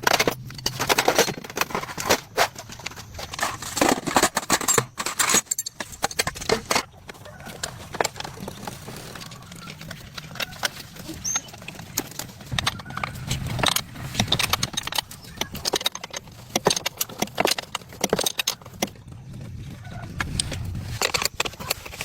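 Irregular sharp clinks and knocks, many in quick succession, with a low hum that comes and goes.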